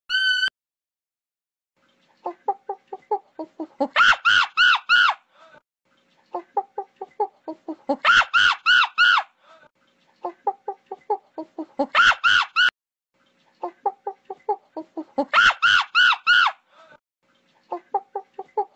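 Chicken clucking in quick runs of short low notes, each run breaking into a loud burst of four or five higher squawking notes; the pattern repeats about five times. A brief different call sounds right at the start.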